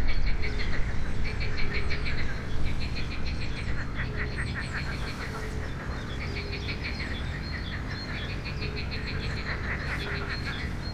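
A chorus of calling frogs and birds: rapid, high pulsed trills repeating about once a second, with short low hooting notes between them, over a steady low background noise.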